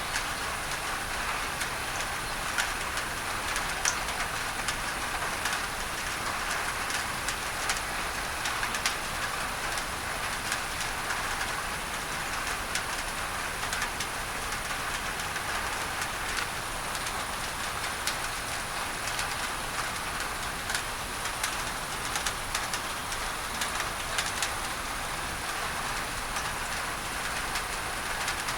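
Steady rain on a tin roof, with many scattered sharp drop ticks, layered with a steady hiss of masking noise.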